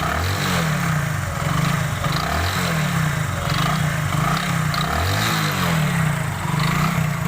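Hero Super Splendor's single-cylinder four-stroke engine running and revved in three short throttle blips. The noise from inside the engine is not the timing chain or the rockers; it is later traced to a damaged crankshaft bearing.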